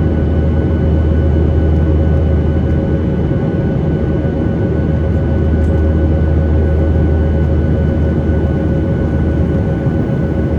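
Steady cabin noise of a Boeing 737-800 with its CFM56 jet engines running: a loud, even low rumble and rush of air with a few thin steady whines over it.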